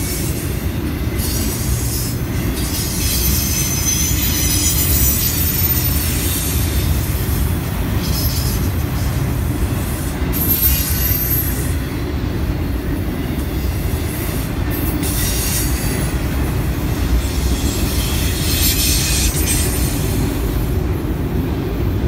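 Freight train of enclosed autorack cars rolling past at close range, with a steady low rumble of steel wheels on rail. High-pitched wheel squeals come and go several times.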